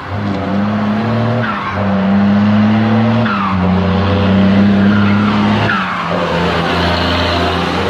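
Leyland Clydesdale truck's diesel engine running steadily. Its note dips three times, each time with a short falling whine.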